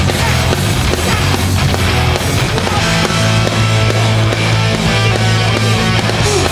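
Live hardcore punk band playing loud, with distorted electric guitars, bass and drums.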